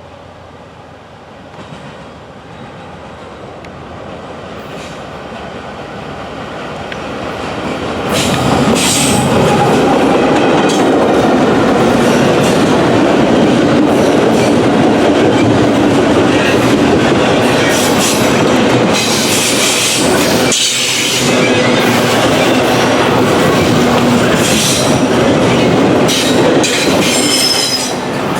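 Norfolk Southern freight train approaching, growing louder over the first eight seconds, then rolling past close by, its steel wheels running on the rails with scattered high-pitched squeals.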